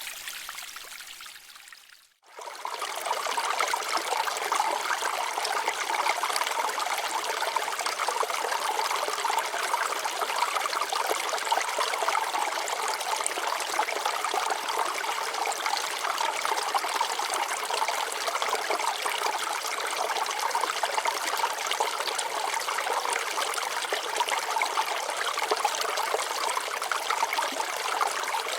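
Shallow water flowing steadily over rocks, a continuous trickling rush. About two seconds in, it fades out briefly and comes back louder.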